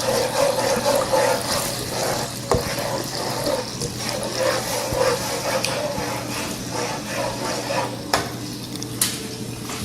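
Honey glaze sauce bubbling and sizzling in a wok as it cooks down and thickens, with a few sharp clicks.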